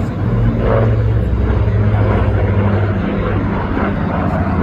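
Piston engines of WWII bombers, the Avro Lancaster's Rolls-Royce Merlins and the B-25's radials, running in a loud, steady drone as the aircraft fly over.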